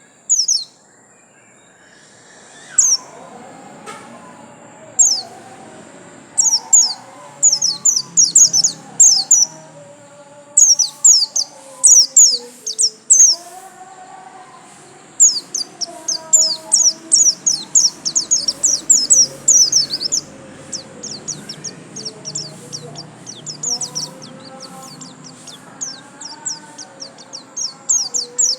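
White-eye (Zosterops, the 'pleci' of Indonesian bird hobbyists) singing: runs of sharp, high, down-sweeping chirps that build into a long, fast continuous roll about halfway through.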